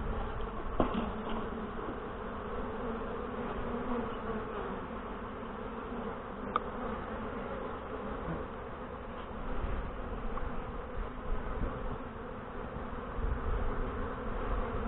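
A mass of Saskatraz honey bees buzzing around an open hive, a steady hum, with a light knock about a second in.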